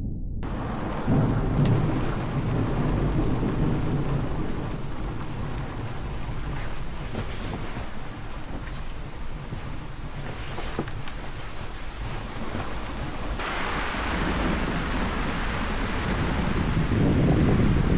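Heavy rain falling steadily with rolls of thunder, one about a second in and another near the end. The rain's hiss grows louder about two-thirds of the way through.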